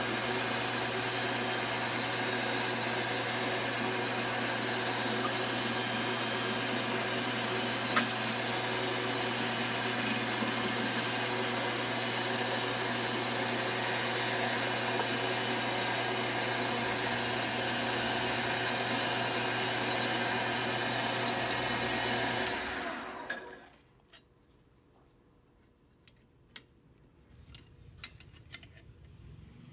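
Metal lathe motor running steadily while turning a part, then switched off about three quarters of the way through and spinning down. After that come a few light clicks and handling sounds.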